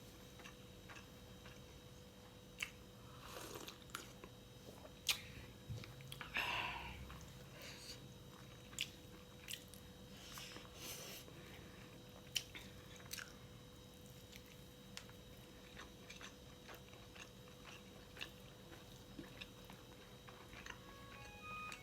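Close-miked eating of fried pork: chewing and biting with scattered wet clicks and a few short, louder crunchy bites.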